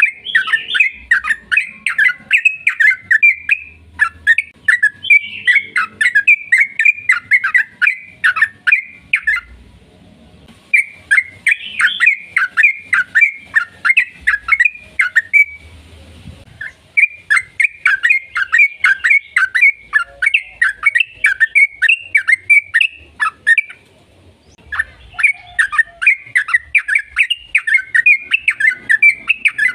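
Yellow-vented bulbul (trucukan) singing a long, rapid chattering song of quick bubbling notes, delivered in four extended bouts separated by brief pauses.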